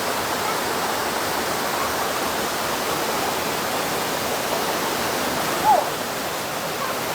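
Waterfall rushing steadily into a pool. About five and a half seconds in comes one short, high cry that falls in pitch.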